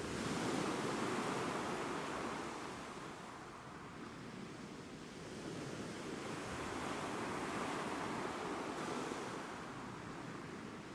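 Ocean waves breaking and washing on a shore, two surges that swell and fade.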